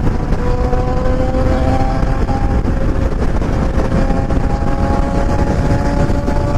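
Motorcycle engine running at a steady cruise, its pitch rising slowly as it gathers speed, over a heavy low rumble of wind and road noise.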